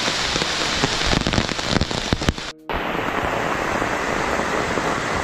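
Steady rain drumming on an open umbrella held overhead, with denser drop hits between about one and two and a half seconds. After a brief dropout it carries on as steady rain, duller and less hissy.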